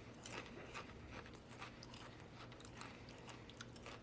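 Someone chewing a mouthful of Pringles potato crisps: faint, irregular crunches, several a second.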